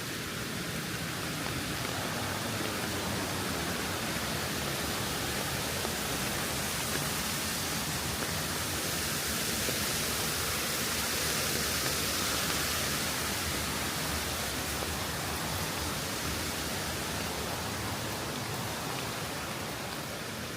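Steady rain falling, an even rushing hiss that swells slightly about halfway through.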